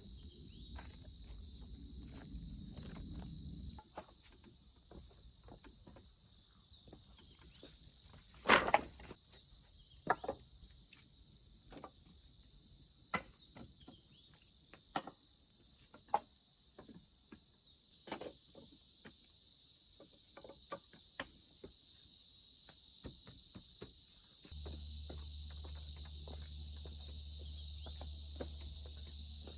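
Steady high-pitched chorus of insects, with a dozen or so scattered sharp knocks and taps, the loudest about nine seconds in. A low steady rumble comes in near the end.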